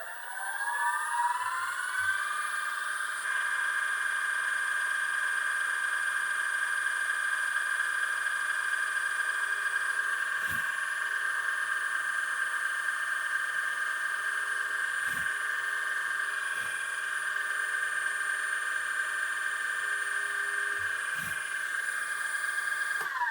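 Small electric drill with a 2 mm bit spinning up with a rising whine, then running at a steady high whine while boring into the sealed plastic hub at the back of a PC fan, and winding down near the end. A few faint knocks sound in between.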